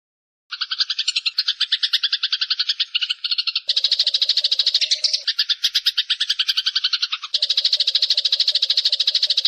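Eurasian tree sparrow chattering in a fast, continuous run of chirps, about eight to ten a second. It starts about half a second in and grows fuller about halfway through.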